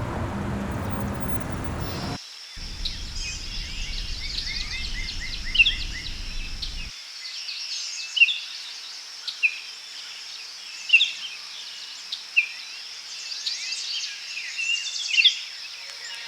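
Birds chirping and calling over a steady high insect-like buzz. A low rumble fills the first two seconds and then stops abruptly.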